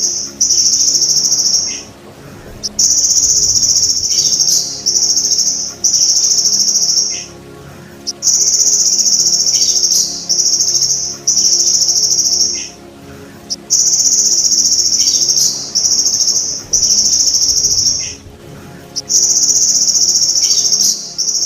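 Golden grasshopper (belalang emas) trilling: high-pitched buzzing trills of one to two seconds, mostly in pairs, with short pauses between. A faint low steady hum lies underneath.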